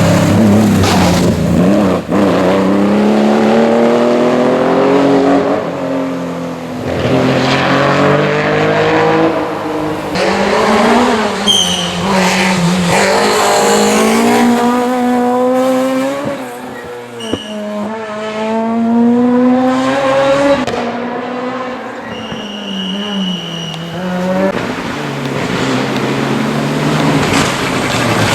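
Historic rally car engine revving hard on a stage, its pitch climbing and dropping over and over through gear changes as the car passes, with a few short high-pitched tyre squeals.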